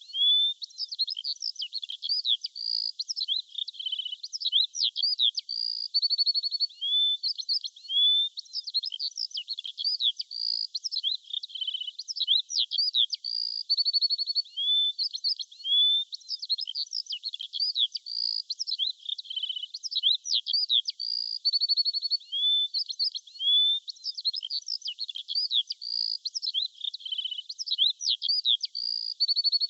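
Songbirds chirping and whistling continuously: many quick chirps, short steady whistles and rising notes, all high and thin with no low sound at all, in a pattern that seems to repeat every several seconds.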